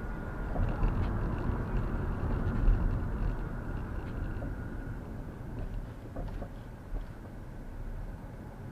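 Low rumble and road noise of a moving vehicle. A faint steady whine fades out about halfway through, and there are a few light rattles.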